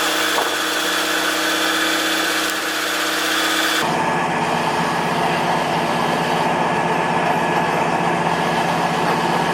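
Vehicle engine running steadily at idle. About four seconds in the sound changes abruptly to a lower, denser engine hum.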